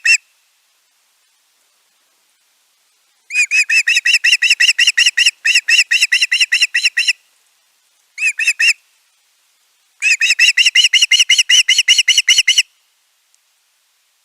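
A bird calling in bouts of rapid, high, whistled yelping notes, about five a second, each run lasting a second to a few seconds with short silent pauses between.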